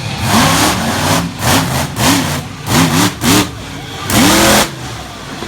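A monster truck's engine revving in a run of short, sharp throttle blips, each rising and falling in pitch, with one longer rev about four seconds in.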